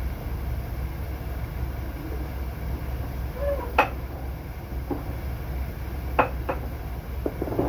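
Semi-truck engine idling with a steady low rumble, with a few scattered sharp knocks and clanks over the top.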